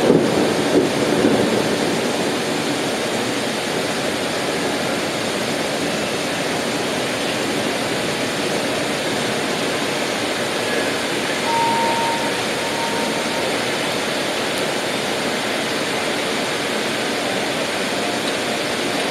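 Steady rain falling, an even rushing hiss with no letup.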